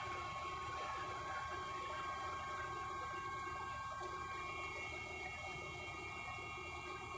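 Helicopter engine and rotor noise heard from inside the cabin: a steady drone with a low rumble and a few high, even whining tones.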